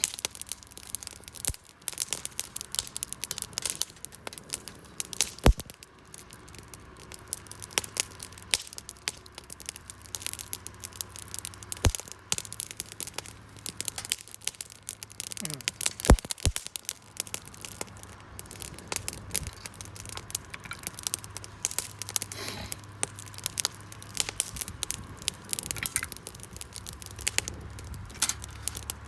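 Wood fire crackling, with frequent irregular sharp pops and snaps; one louder snap about halfway through.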